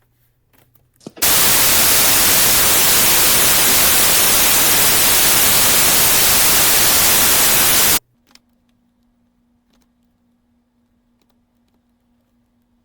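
Loud, even white-noise static that switches on abruptly about a second in and cuts off just as abruptly some seven seconds later; afterwards only a faint steady hum.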